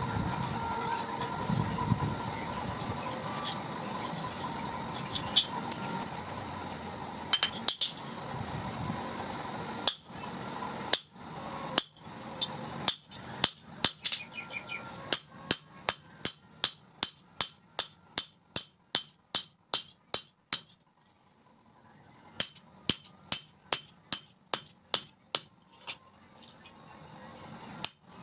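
Hammer blows on metal during forging, struck in runs of about two a second with a short pause partway through. For the first third a steady hum runs underneath and the blows are only occasional.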